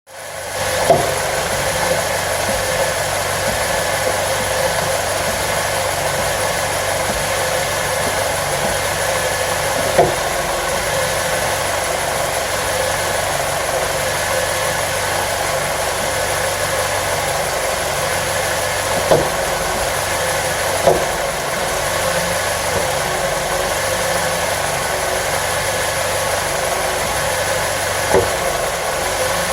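Honda K24A 2.4-litre four-cylinder engine idling steadily, with a sharp knock now and then, five in all spread irregularly across the stretch. The engine has severe crankshaft endplay (crank walk), about 50 thou against a spec of 4–8, from a thrust bearing that spun and wore into the block.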